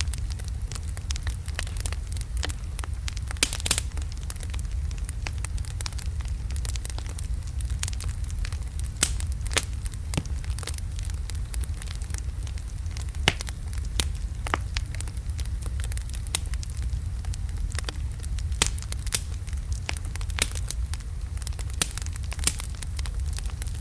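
Wood fire of large burning logs crackling, with sharp pops at irregular intervals over a steady low rumble of the flames.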